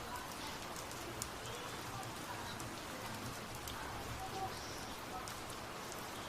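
Heavy rain falling steadily, a dense hiss with sharp drip ticks from drops hitting nearby surfaces.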